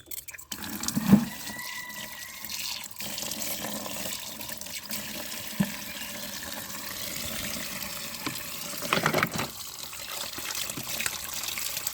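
Water running steadily from a tap, splashing as muddy toy vehicles are washed, with a loud knock about a second in and a few more knocks later.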